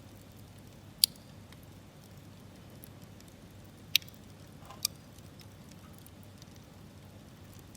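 Campfire wood crackling: three sharp pops, about a second in, at four seconds and just before five seconds, with faint small ticks over a low steady hiss of burning.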